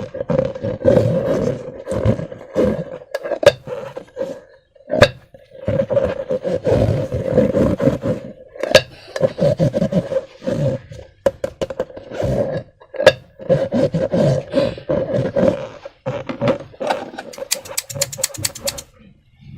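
Rubber balloon neck buzzing in stuttering bursts at a fairly steady pitch as the balloon is squeezed, with a rapid run of clicks near the end.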